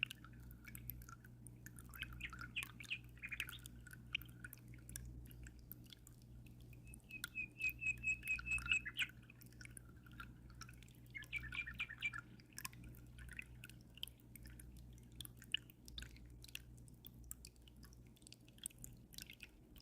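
A small bird chirping in three short bursts, the middle one a rapid even trill, over aquarium water dripping and trickling in scattered clicks, with a steady low hum underneath.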